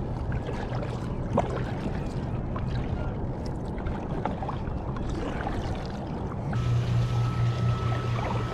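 Water splashing and dripping around a moving kayak, with small knocks, over a steady low hum. About six and a half seconds in, the hum gets louder and a faint steady high tone joins it.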